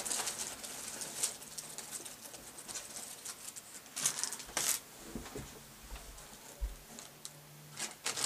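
Plastic craft-supply packets rustling and crinkling with light clicks as they are sorted through by hand, in irregular bursts.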